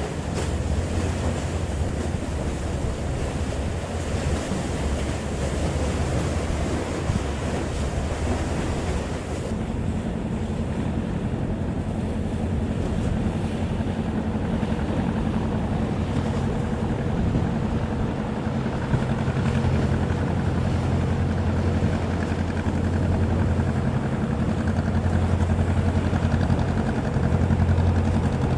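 Wind on the microphone and sea water, changing abruptly about a third of the way in to the fishing boat's engine running at a steady low hum.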